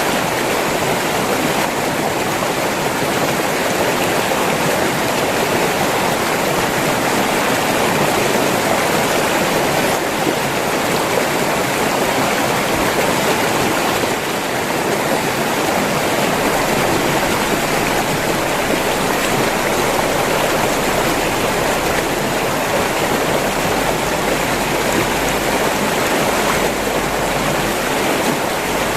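River water rushing and splashing in a steady, continuous flow.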